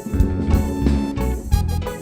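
Live band playing an instrumental introduction, with guitar over a steady drum beat.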